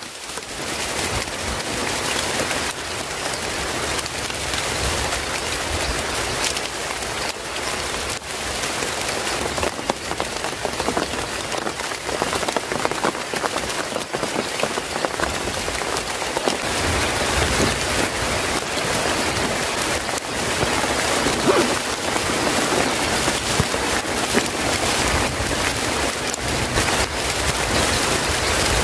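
Steady heavy rain: a dense wash of small drop hits that goes on without a break.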